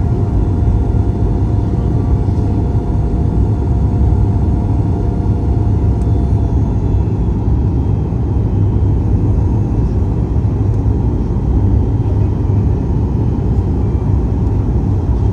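Steady low rumble of a Boeing 737 MAX 8's engines and airflow, heard from inside the passenger cabin.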